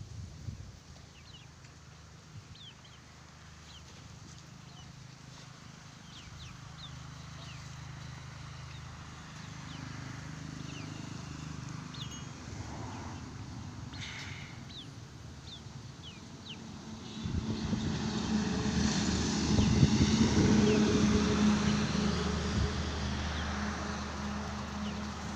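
A motor engine running steadily and growing louder, loudest over the last third, with small birds chirping.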